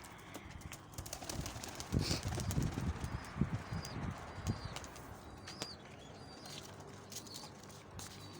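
Pigeon wings flapping in a burst of low flutters from about two seconds in, followed by short high bird chirps repeating about once a second.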